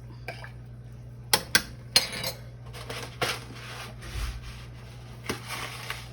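Metal utensil knocking and scraping in a soup pot: three sharp clinks followed by rough stirring scrapes.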